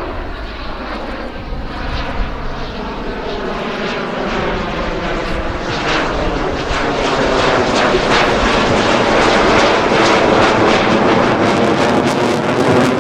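F-16 Fighting Falcon jet engine growing steadily louder as the fighter closes in, with a sweeping, phasing quality to the noise. From about halfway in, a rough crackle runs through it.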